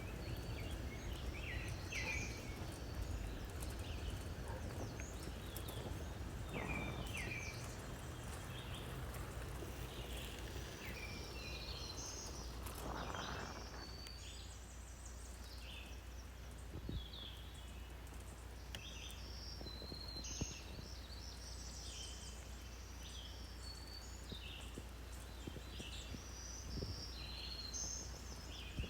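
Small birds chirping over and over in short, quick notes over a steady low rumble.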